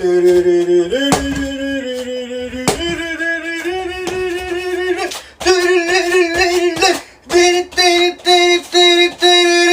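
A voice singing long held notes, then a string of short repeated notes on one pitch near the end.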